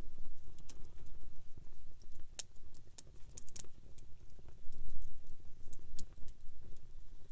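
Wood campfire burning: a low flutter of flames with scattered sharp crackles and pops, a small cluster of them about halfway through.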